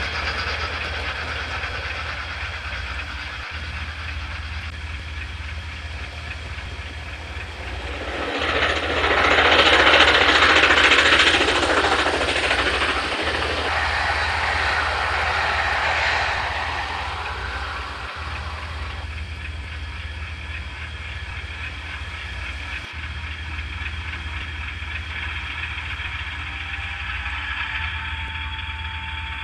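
Added full-size train sound effects over a model railway: a steady low rumble of a passing train, broken by brief dropouts every few seconds as the recording repeats. A louder rushing passage swells up about eight seconds in and fades over several seconds. A faint rising whine comes in near the end.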